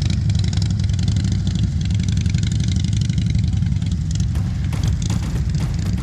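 Motorcycle engine running steadily under way, a constant low drone, with some short knocks or buffets from about four seconds in.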